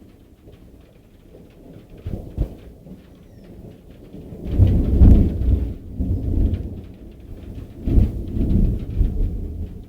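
Thunder rumbling in long rolls during a strong thunderstorm, with a sharp crack about two seconds in and the loudest peals about five and eight seconds in.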